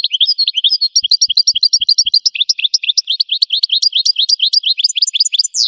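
Goldfinch singing a fast, even run of short, sharp chirping notes, about six or seven a second, ending with a higher sweeping note.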